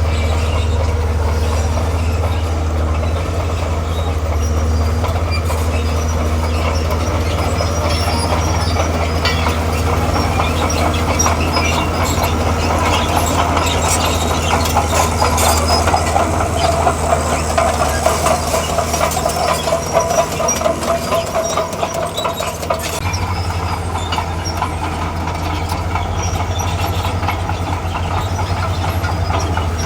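Diesel engine of a tracked earthmover running under load, with its steel crawler tracks clattering. Midway through the tracks squeal for several seconds and the engine note dips, then picks up again a little over two-thirds of the way in.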